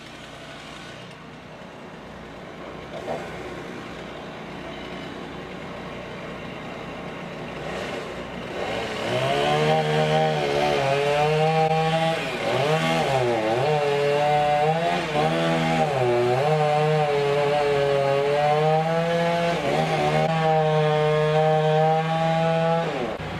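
Chainsaw engine at full throttle, cutting in loudly about nine seconds in after a quieter mechanical rumble, its pitch dropping briefly several times as it takes load in the cut.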